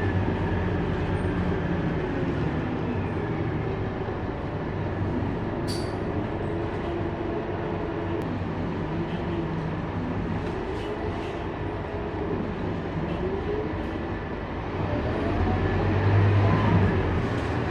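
Scania K230UB bus's engine and drivetrain running as it drives, its pitch rising and falling with speed and growing louder near the end. There is a single sharp click about six seconds in.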